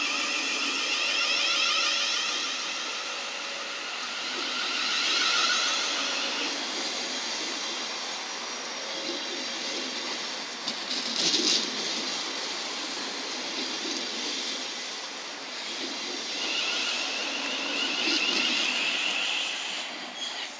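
Thameslink Class 700 electric train running along the platform: a steady rumble of wheels on rail, with the electric traction whine coming and going a few times, and a short clank about eleven seconds in.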